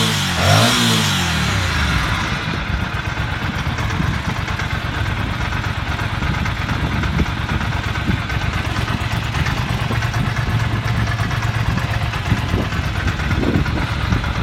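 An engine running: its pitch falls and rises within the first second or so, then it runs on steadily.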